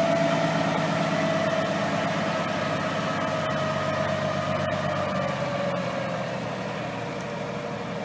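Heavy truck's diesel engine running, its pitch and loudness slowly falling as it winds down or pulls away.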